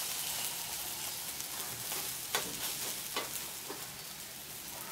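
Egg masala dosa sizzling steadily in a hot nonstick frying pan after being flipped, with a few faint scrapes of a steel spatula against the pan a couple of seconds in.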